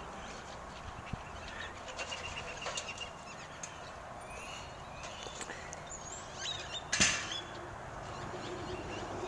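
Faint outdoor background noise with scattered short bird chirps, and one sharp knock about seven seconds in.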